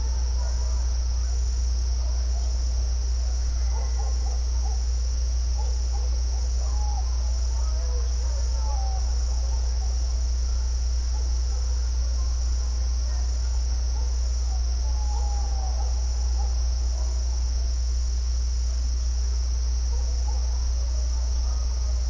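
A steady chorus of crickets, one continuous high trill, over an even low rumble. Faint short warbling calls come and go beneath the trill.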